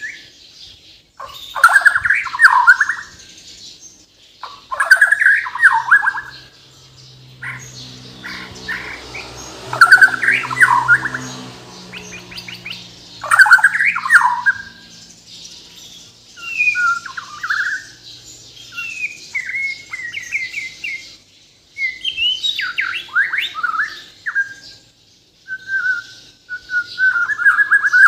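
White-rumped shama (Bornean murai batu) singing loudly in short, varied phrases of fast sweeping whistles and chattering notes, a new phrase every three to four seconds. The song is full of other birds' calls that it has copied.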